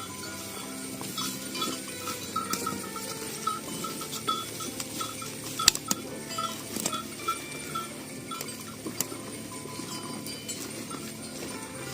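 Bells on walking cattle ringing over and over, short same-pitched clinks about one or two a second, with scattered sharp clicks among them.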